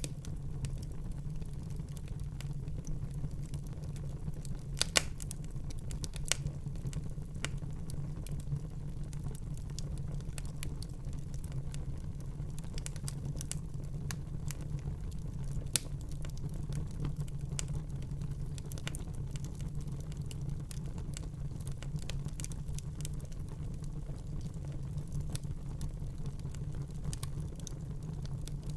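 Wood fire in a fireplace burning with a steady low rumble and frequent irregular crackles and pops, a few sharper pops standing out, about five seconds in and again about sixteen seconds in.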